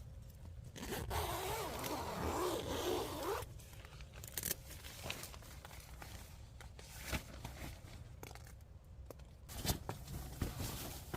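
Tent door zipper being pulled open in one long pull of about two and a half seconds, starting about a second in. After it come scattered rustles and light clicks.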